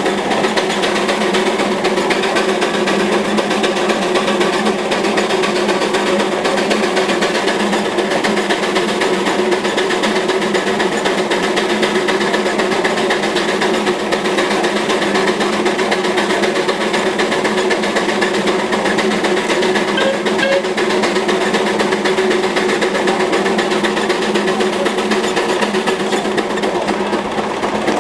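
Veneer lathe running, a steady fast rattle over a low hum that holds unchanged throughout.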